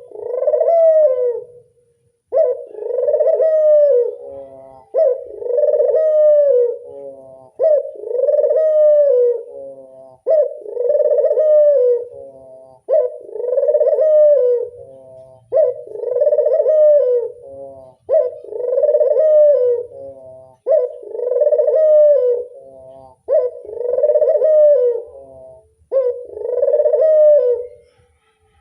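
Puter dove (domestic ringneck dove) cooing: the same rolling coo phrase repeated eleven times, about every two and a half seconds.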